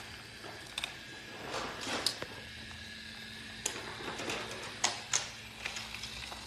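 Light, irregular clicks and knocks of small hard toy pieces, such as wooden toy train and track parts, over a faint steady hum.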